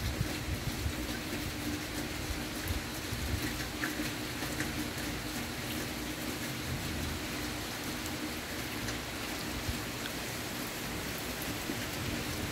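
Steady rain falling, with scattered drops ticking and a faint steady hum underneath.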